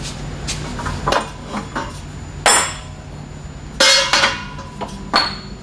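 Steel pipe-bender tooling being handled: light clicks, then three louder metallic clanks about two and a half, four and five seconds in, the middle one ringing on briefly, as the bending shoe is swapped for a shorter one.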